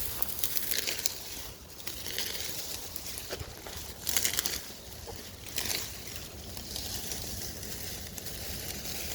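Dry leaves and twigs crunching and crackling in irregular bursts, with scattered small snaps.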